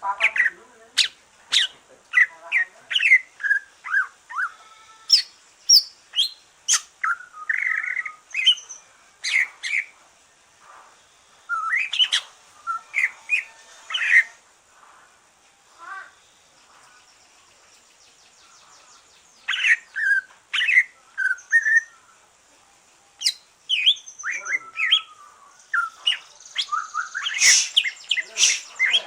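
Cucak ijo (green leafbird) singing in bursts of quick, varied chirps and whistles, with a pause of a few seconds around the middle. The bird has just finished its moult and is back in song.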